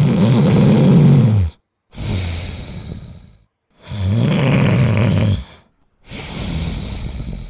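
Sleeping dog snoring loudly, breath after breath: a loud, low buzzing snore, then a quieter breath that fades away, twice over, with short pauses between.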